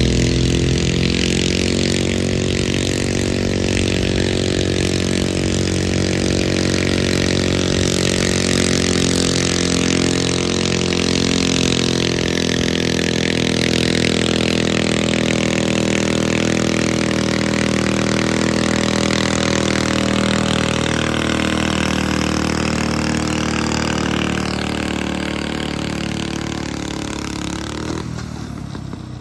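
Garden tractor engine running hard at a steady, nearly constant speed, as in a pull. It fades away over the last few seconds.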